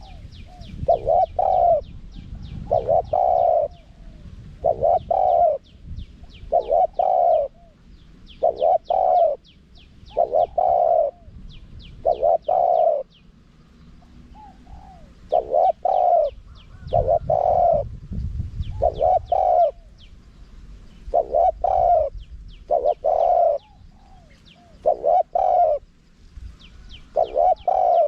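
Spotted dove cooing over and over in a wild-type calling pattern, one cooing phrase about every one and a half to two seconds. Faint high chirps of other birds sound behind it.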